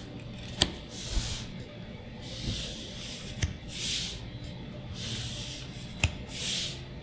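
Magic: The Gathering trading cards being handled: soft swishes of cards sliding past one another every second or so, with a few sharp clicks, the loudest about half a second in and again near the end.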